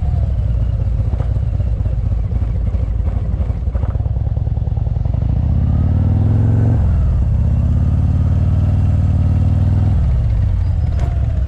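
Motorcycle engine running, revving up with rising pitch, then a sudden break in the sound about two-thirds of the way in, typical of a gear change; it then holds steady at a higher level before easing off near the end.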